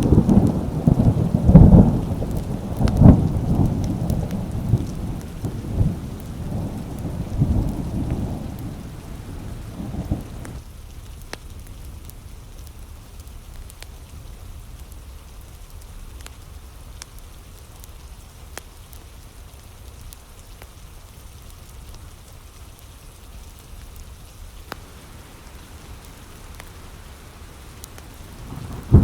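Thunderstorm: heavy rolling thunder over rain for the first ten seconds or so, then the thunder drops away suddenly, leaving steady rain with scattered faint drip ticks, before the rumbling comes back at the very end.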